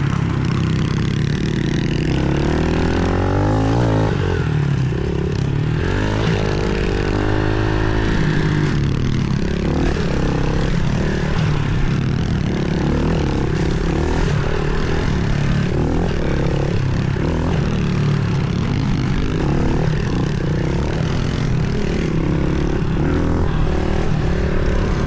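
Pit bike engine running as it is ridden, the pitch rising and falling with the throttle a few times in the first several seconds, then holding a steady buzz.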